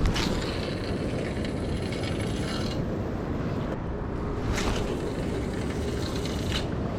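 A fishing reel's gears whirring for about three seconds, followed by two short sharp clicks, over a steady low rumble of wind and water.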